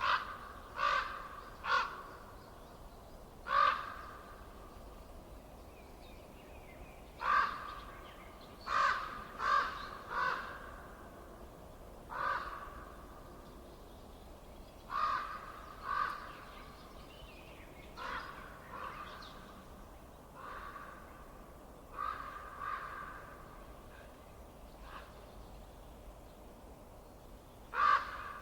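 A bird calling over and over with short, harsh, pitched calls, about half a second each, coming singly or two or three close together every second or few, over a faint steady hiss.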